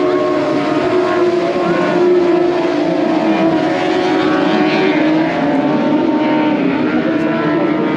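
Motorcycle engines running at a steady note, with their pitch wavering slightly and easing a little after about five seconds.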